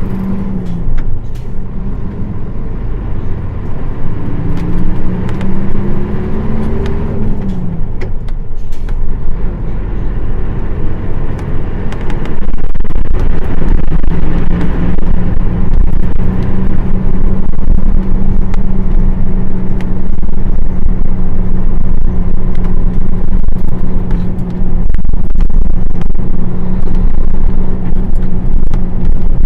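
Nissan Diesel PF6 diesel engine of a KL-UA452KAN bus, heard on board as the bus accelerates. The engine note rises, drops at a gear change about a second in and again near eight seconds, then settles into a steady, louder cruise from about twelve seconds.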